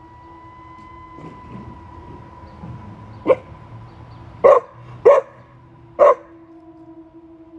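Cane Corso puppy giving four short, sharp alert barks, the first a little over three seconds in and the rest close together over the next three seconds, over a steady faint hum.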